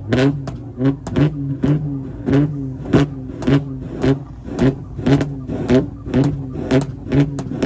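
Car engine held at steady high revs, its exhaust letting out loud sharp pops about two to three times a second, the sound of an engine bouncing on a rev or launch limiter.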